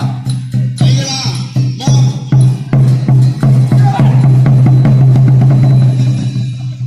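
Live Isan serng folk music with phin and khaen: quick percussion strokes over a steady low drone, with voices. The music begins to fade near the end.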